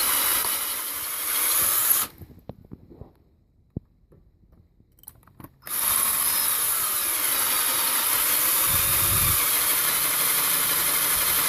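Hand-held power drill boring into a broken exhaust manifold bolt. It runs, stops about two seconds in, and a few light clicks follow. It starts again a little past halfway and then runs steadily.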